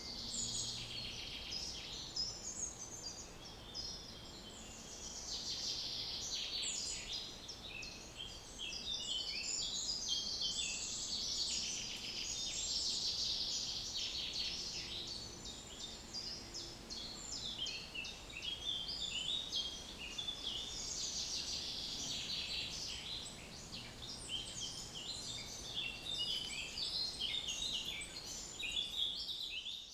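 Many small birds chirping and twittering together in a continuous chorus of short, overlapping calls.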